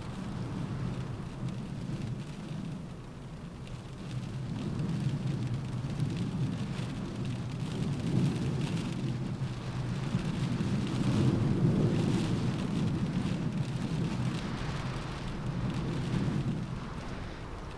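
Rain falling on a window in a windstorm, with a low rumble of wind that swells to a peak about two-thirds of the way through and then eases.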